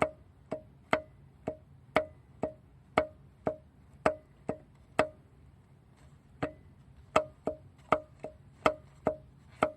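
Sharp metal clacks with a short ring, about two a second, unevenly spaced and pausing for a second or so midway, from a Daihatsu KF engine's No. 2 piston being rocked up and down by hand. The clack is the very loose, worn piston pin knocking: the cause of the engine's knocking noise.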